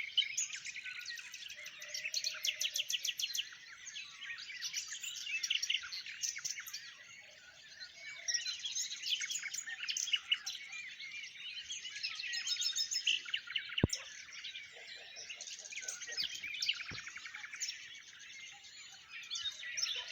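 Dawn chorus: many small songbirds singing and chirping at once, their high trills and calls overlapping without a break. A single sharp click cuts through about fourteen seconds in.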